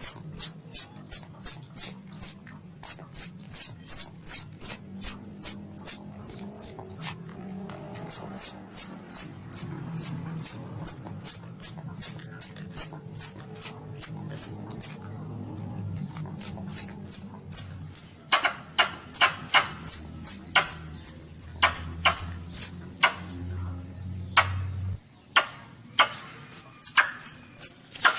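Baby Asian palm civet squealing: a steady run of short, high-pitched squeaks, about three or four a second, used as a hunting lure call. From about two-thirds of the way through, the squeaks turn fuller and harsher. A low hum underneath cuts off near the end.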